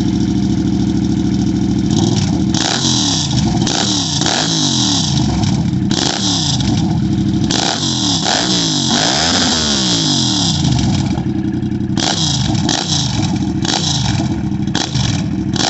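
Yamaha FZ motorcycle engine idling at first, then revved over and over in quick throttle blips, with one longer rev near the middle, the exhaust note rising and falling each time.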